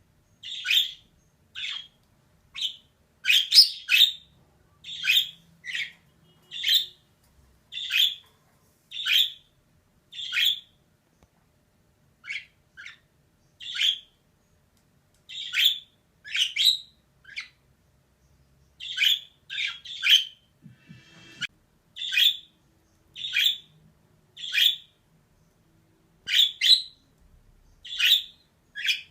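Female budgerigar calling: short, sharp chirps repeated about once a second, sometimes two in quick succession, with a few short pauses and a brief raspy chatter about twenty seconds in.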